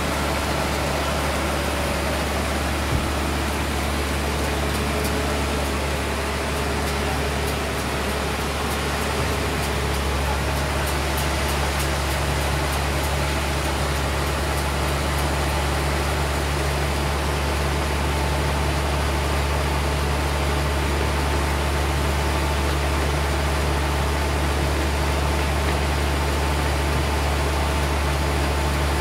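Sawmill engine running steadily, a constant low hum over even mechanical noise, shifting slightly about ten seconds in.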